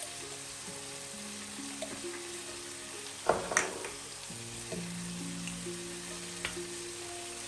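Eggplant slices sizzling steadily as they fry in oil in a pan, with two sharp clinks a little over three seconds in as glass spice shakers are set down on the counter.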